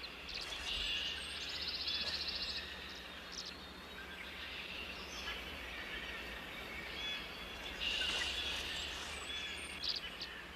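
Songbirds calling: a fast trill twice, with short chirps scattered between, over a steady background hiss.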